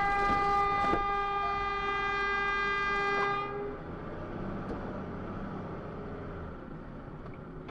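A vehicle horn sounding one long, steady blast that cuts off after about three and a half seconds, followed by engine and road noise.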